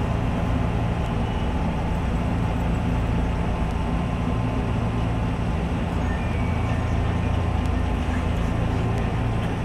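Nishitetsu commuter electric train heard from inside the front car, braking from about 40 km/h to a standstill: a steady rumble and low hum of the running train.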